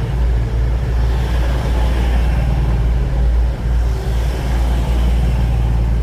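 Class 222 Meridian diesel multiple unit's underfloor diesel engines running in a steady low drone as the train comes into the station.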